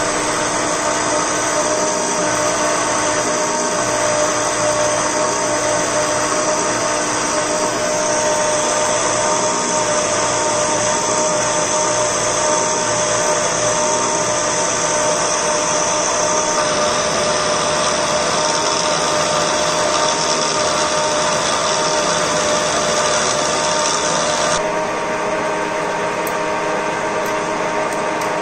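A power tool's electric motor running steadily under use, with a steady whine, its tone shifting slightly about a third of the way in, about halfway and near the end.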